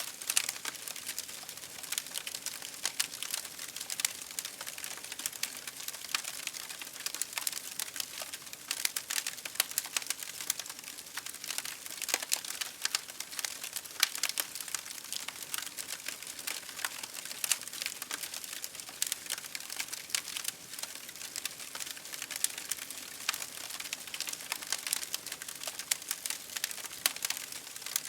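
Campfire crackling steadily: a dense run of small pops and snaps, several a second, over a soft hiss of burning.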